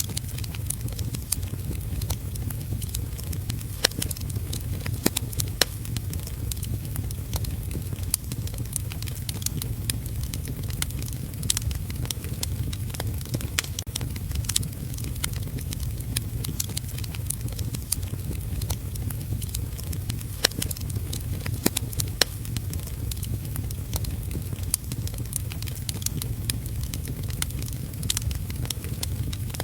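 Wood fire in a fireplace crackling, with frequent sharp pops, over a steady low rumble and the hiss of heavy rain.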